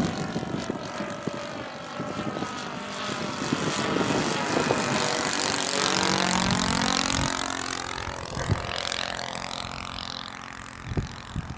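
Propeller airplane flying past, its engine sound building to a peak about five to seven seconds in and then fading. A couple of short knocks come near the end.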